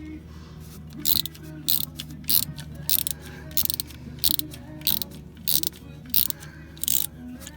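A 1/4-inch-drive ratchet with a 7/32 socket clicking in short bursts, about two a second, starting about a second in, as it works loose the bolts holding a coil pack.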